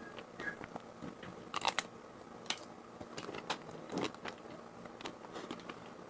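Close-miked eating of ice cream: irregular bites and crunches with chewing, a small cluster of crackles about one and a half seconds in and single crunches after.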